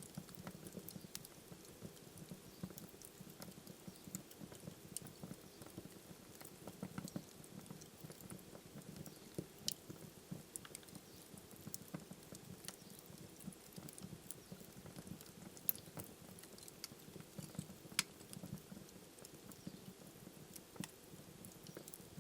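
Wood fire burning in a fireplace: a soft low rumble of flames with irregular crackles and pops throughout, a few sharper pops standing out.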